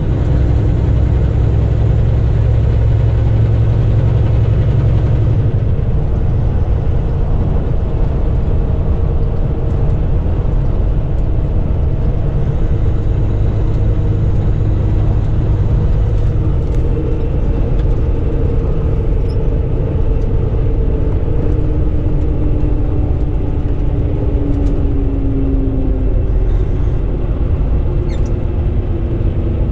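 Semi truck driving on the highway: a steady low engine drone with road rumble.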